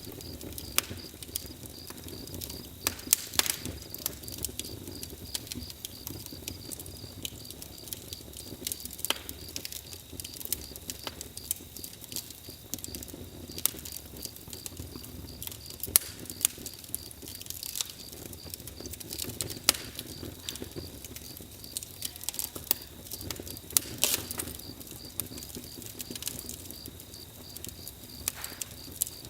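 Campfire crackling: irregular sharp pops and snaps over a low steady rumble, with a steady high, pulsing insect trill throughout.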